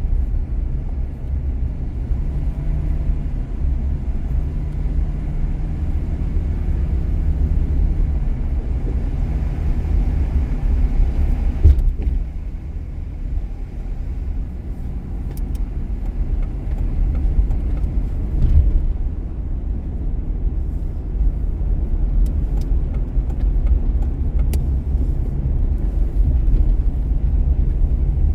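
Car driving on city streets: a steady low road and engine rumble, with a faint hum early on, and single thumps about twelve and eighteen seconds in.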